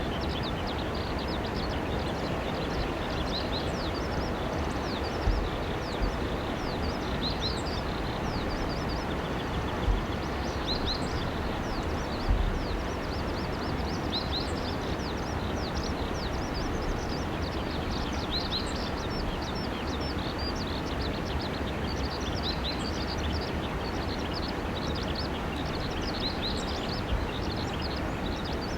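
Many small birds chirping over a steady outdoor rumble, with a few low thumps.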